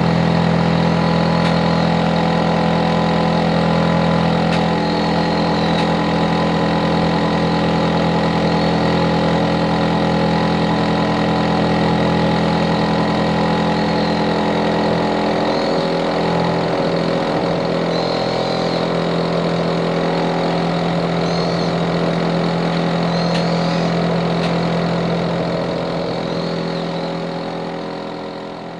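Hitachi air conditioner outdoor unit running loud: a steady hum of several tones from the compressor and fan. The low hum changes about five seconds in and again about halfway, and the sound fades out near the end.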